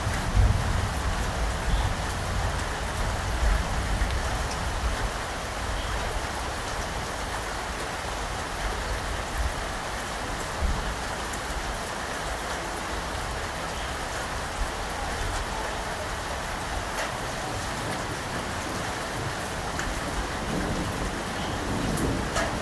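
Steady rain falling, an even hiss of drops with a few sharper drip ticks. A low rumble under the rain is strongest in the first few seconds and swells again near the end.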